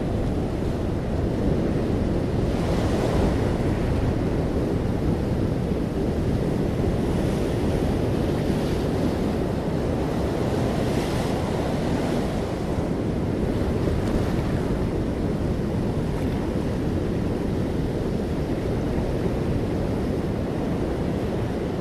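Ocean surf: a continuous low wash of breaking waves, with the hiss of a few waves rising over it.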